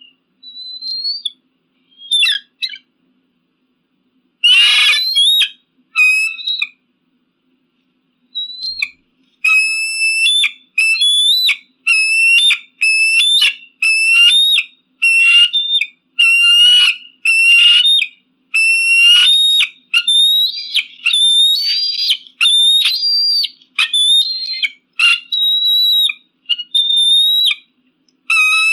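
Eagle calling: a few scattered high calls, one harsher and noisier about four seconds in, then from around nine seconds a steady series of high, whistled calls about once a second.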